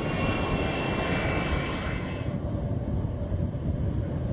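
Aircraft jet engines running with a steady high whine over a broad rush. About two seconds in, the whine drops away and leaves a low rumble.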